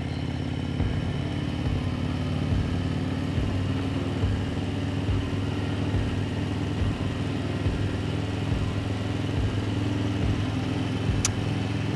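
Motorcycle engine running steadily under way, its pitch holding nearly level with a slight slow rise, and one short click near the end.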